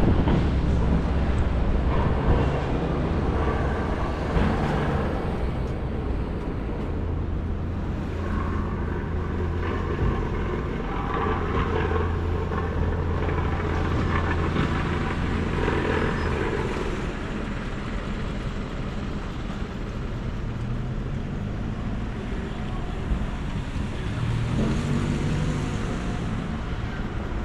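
City street traffic, with vehicles passing and engines rising and falling in pitch, over a steady low rumble of wind on the microphone.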